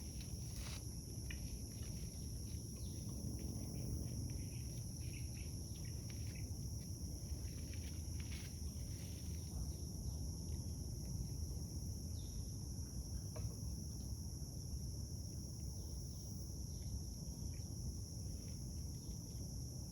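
Forest ambience: a steady, high-pitched drone of insects, over a low rumble of wind or outdoor noise, with a few faint bird chirps and small clicks scattered through.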